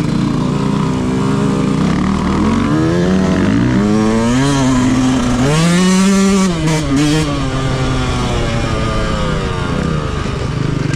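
Yamaha YZ125 two-stroke motocross engine ridden hard off-road, its pitch repeatedly climbing and falling with throttle and gear changes, rising highest about halfway through before the throttle is briefly chopped.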